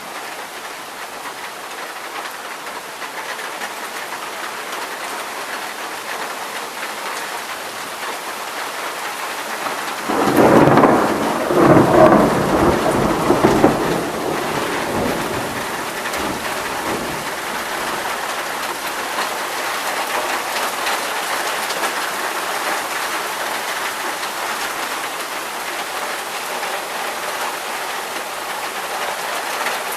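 Steady rain falling through a thunderstorm, with a loud thunderclap about ten seconds in that rumbles for some four seconds before dying back into the rain.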